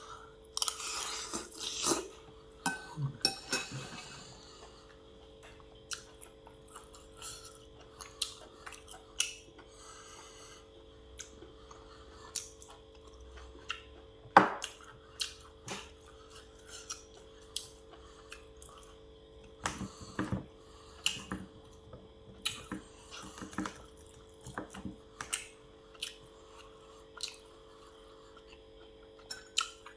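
A person eating close to the microphone: scattered chewing and mouth smacks with light clinks of a spoon against a plate, over a faint steady hum. The sharpest click comes about midway.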